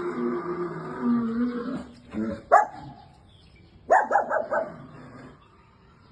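A dog whining, then barking: a single bark about two and a half seconds in, followed near the four-second mark by a quick run of about five barks.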